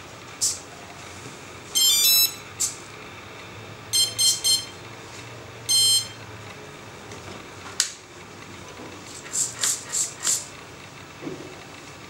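Short sequences of electronic beep tones, one of them a quick run of stepped pitches, with brief hissing bursts and clicks in between.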